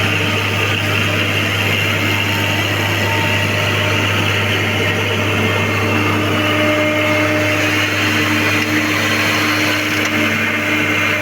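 Diesel engine of a John Deere excavator running steadily, a continuous loud drone with a low hum.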